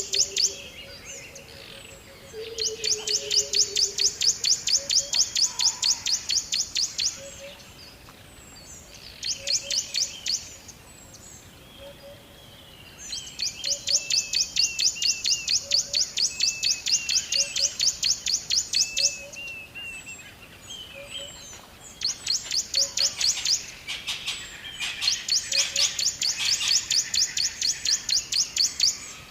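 Birds chirping in rapid trains of high repeated notes, several notes a second, each trill lasting a few seconds with short pauses between. A faint low note repeats about once a second underneath.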